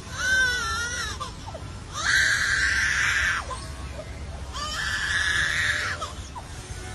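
Baby birds calling: three long, harsh screeching calls separated by short pauses, the first wavering in pitch.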